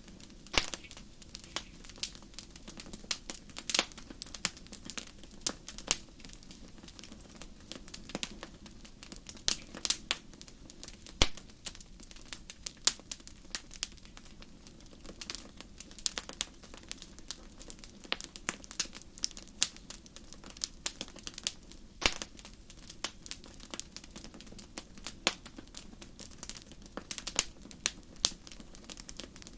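Fire crackling: irregular sharp pops and snaps, a few louder than the rest, over a soft low rush.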